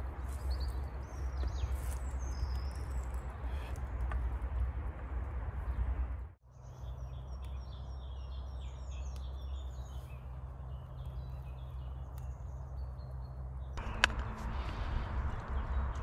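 Small birds chirping over a steady low rumble outdoors, with one sharp knock near the end.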